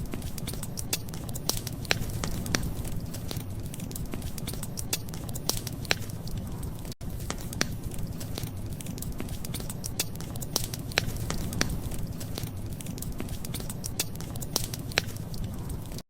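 Wood fire crackling, with frequent sharp pops over a steady low rumble. The sound drops out for an instant about seven seconds in.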